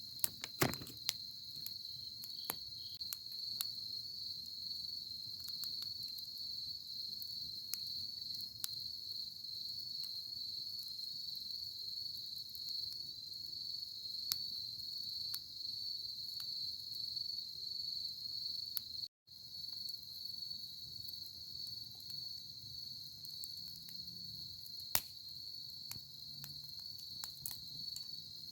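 Wood fire in a fire stand crackling, with scattered sharp pops, the loudest about a second in and near the end. Behind it a steady, high-pitched insect trill runs throughout.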